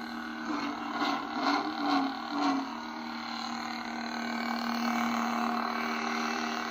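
SaberForge lightsaber playing its Crimson sound font: a steady electric hum, with a few swing sounds that waver in pitch and swell in loudness between about one and two and a half seconds in.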